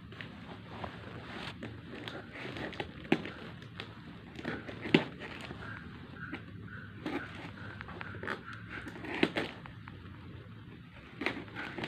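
Handling noise of a package being unpacked: crackling, scraping and rustling of packaging, with scattered sharp knocks, the loudest about five seconds in.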